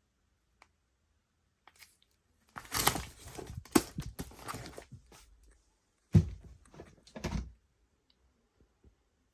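Packaging being handled: crinkling and rustling for about three seconds, then two separate thumps.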